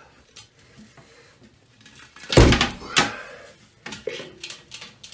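Toilet being lifted off and set down on a concrete floor: a heavy thud about two and a half seconds in, a second knock half a second later, then lighter clatter near the end.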